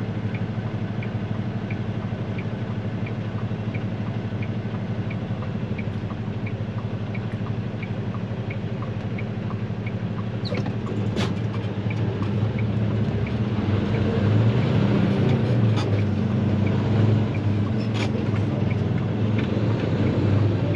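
Truck's diesel engine idling, heard inside the cab, with a turn signal ticking about twice a second. About 13 seconds in the ticking has stopped and the engine pulls harder and louder as the truck gets moving, with a few sharp knocks.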